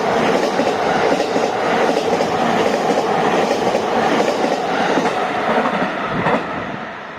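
Train running past, its wheels clacking over rail joints. The sound drops away sharply about six and a half seconds in.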